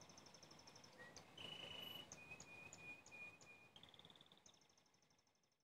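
Faint bird chirps and short high trills, several notes in a row, fading out near the end.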